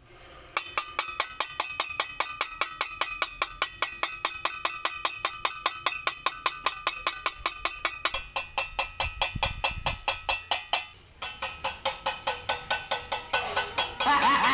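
Rapid, evenly spaced strikes of a ringing, bell-like percussive sound, about four a second. The rhythm breaks off briefly a few seconds before the end, then resumes and grows louder.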